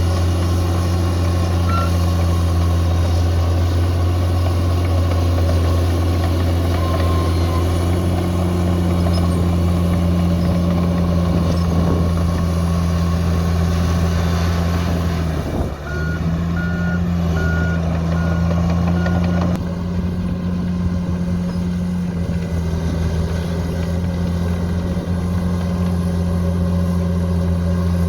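Bulldozer's diesel engine running steadily under load. About halfway through the engine dips briefly, then a reversing alarm beeps about twice a second for a few seconds.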